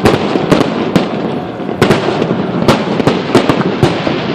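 Fireworks display: a rapid, irregular series of sharp bangs from bursting shells, about ten in four seconds, over a continuous rumble and crackle of further bursts.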